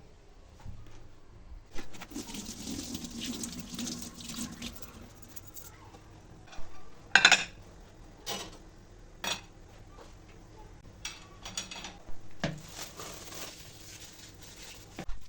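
Kitchen work at a sink: water running from a tap in two spells, with clattering knocks of dishes and utensils in between, the loudest a sharp clack about seven seconds in.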